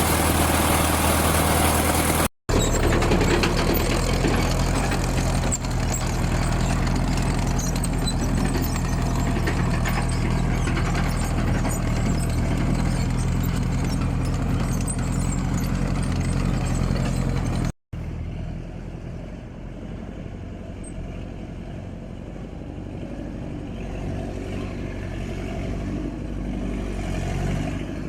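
A motor vehicle's engine running steadily, with a low, even hum. It breaks off suddenly twice and continues more quietly after about eighteen seconds.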